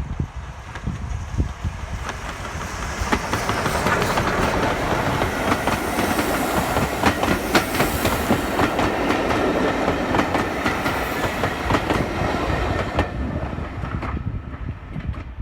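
Train wheels running over rail joints with a quick clickety-clack, on the train hauled by Ivatt Class 2 No. 46512. The rumble builds over the first few seconds, is loudest in the middle and dies away near the end.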